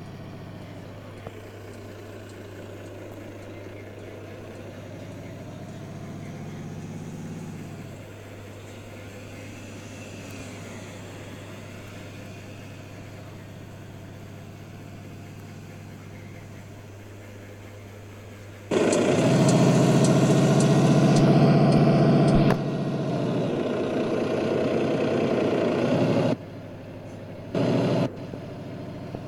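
Volvo truck's engine running with a steady low hum. About two-thirds of the way through, a much louder noise cuts in abruptly for several seconds, followed by a slightly quieter stretch and one short loud burst near the end.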